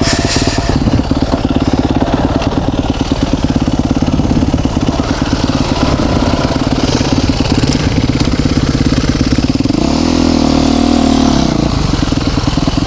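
Dirt bike engine idling steadily, with a short blip of the throttle about ten seconds in that briefly raises the pitch before it settles back to idle.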